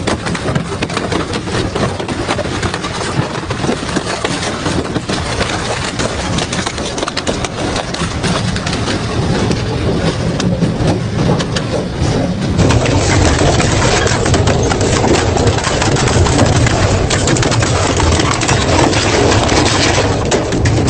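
Industrial double-shaft shredder running and tearing through metal: a dense, continuous clatter of crunching and cracking over a low machine drone, louder from about two thirds of the way in.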